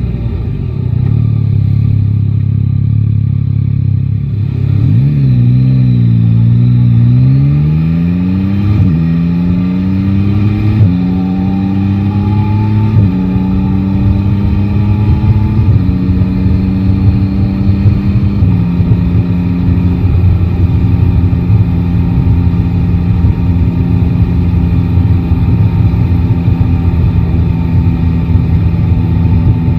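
Yamaha Tracer 9 GT's three-cylinder engine pulling away from low speed and accelerating through the gears: the pitch climbs and drops back five times as it shifts up, then holds a steady note at a constant cruising speed for the last ten seconds or so.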